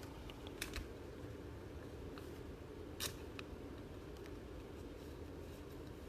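Faint clicks and rustles of trading cards and plastic sleeves being handled, over a steady low room hum, with the most distinct click about three seconds in.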